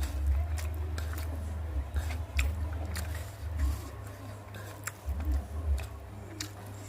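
Close-miked chewing of food, with scattered sharp wet mouth clicks and smacks over a low rumble.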